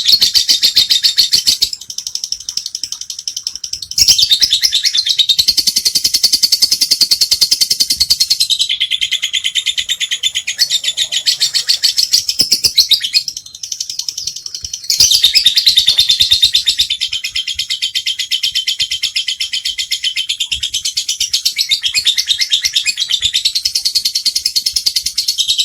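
Lovebird ngekek: a long, unbroken run of rapid, high-pitched chattering. It eases off about two seconds in and again for a stretch from about nine to fifteen seconds, then comes back strong.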